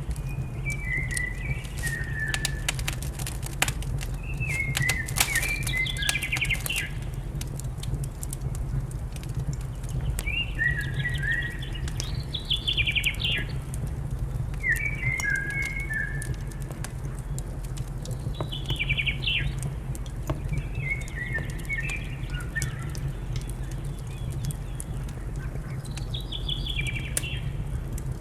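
A songbird singing short phrases that drop in pitch, one every few seconds, over the crackle and pop of a wood fire and a steady low rumble. The crackling is busiest in the first few seconds.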